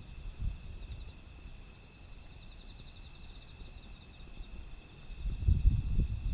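Insects chirring steadily in several high-pitched bands, one with a fine rapid pulse. Typhoon wind buffets the microphone in low rumbling gusts, briefly at the start and again from about five seconds in.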